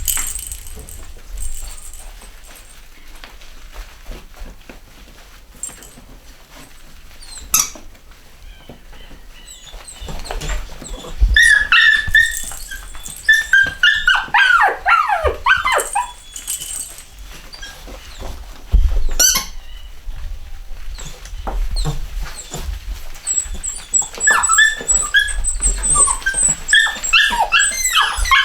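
Young Cockapoo puppies making high-pitched calls: a run of many short squeaky cries about a third of the way in and another near the end, some falling in pitch, with a few sharp knocks between.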